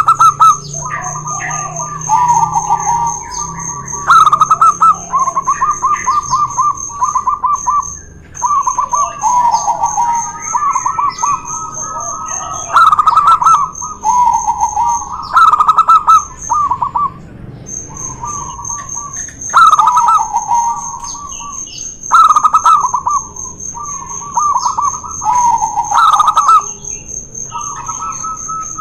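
Zebra doves (perkutut) cooing in rapid, choppy phrases that overlap and run on without a break. A louder phrase comes every few seconds, over a steady, high-pitched pulsing tone.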